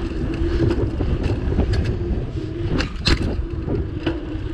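Bicycle being ridden along a path: a continuous low rumble of tyres and air with a steady hum, and frequent clicks and rattles from the bike, the sharpest about three seconds in.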